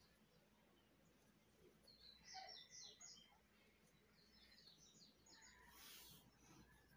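Near silence with faint bird chirps in the background: two short clusters of quick, high calls. A brief soft hiss comes near the end.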